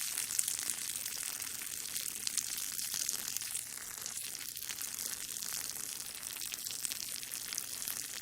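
A steady hissing stream of liquid pouring and splashing, the sound of peeing.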